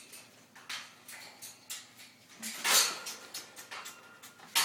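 Agitated parrot giving harsh, hissing calls in a few short bursts, the loudest about two and a half seconds in: a defensive, angry reaction to being teased.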